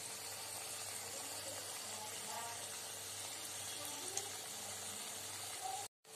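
Champakali, a folded maida-dough pastry, deep-frying in hot oil in a pan: a steady sizzle that cuts off abruptly near the end.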